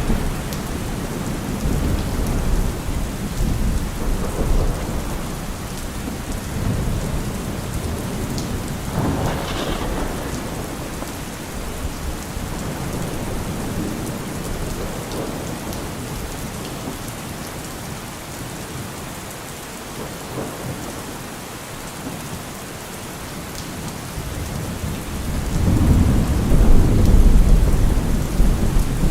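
Steady rain with rolling thunder: a low rumble about a third of the way in, and a louder, longer roll of thunder near the end.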